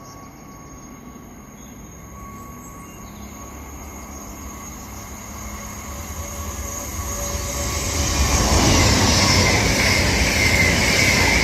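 CrossCountry Voyager diesel-electric multiple unit approaching and passing through the station at speed. Its engine and wheel noise build steadily and are loudest over the last few seconds.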